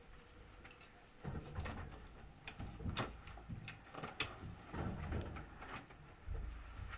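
Washing machine running: irregular knocks, clicks and rattles over a low rumble, starting about a second in.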